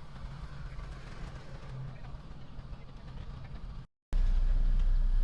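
Heavy construction machine's diesel engine running steadily. About four seconds in, the sound cuts out for a moment and returns as a much louder, deeper engine rumble.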